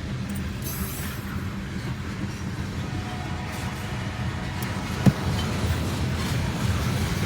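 Freight train cars rolling past at speed: a steady rumble of steel wheels on the rails, with one sharp clank about five seconds in.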